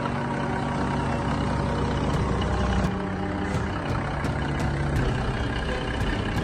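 Cummins NTA 855 inline six-cylinder turbocharged diesel running steadily at low speed, with sharp ticks from about two seconds in.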